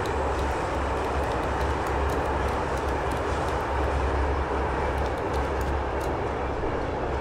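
Steady running noise of a moving passenger train heard from inside the carriage, a constant rumble with a low, pulsing undertone.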